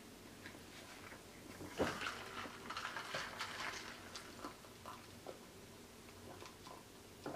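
Close-miked eating sounds: wet mouth clicks and smacks of chewing, bunched about two seconds in, then a few sips and swallows from a cup with scattered single clicks.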